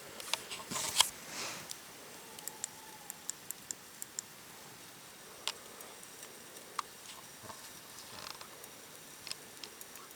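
Scattered sharp clicks and pops at irregular intervals over a low hiss, with a brief rustle about a second in.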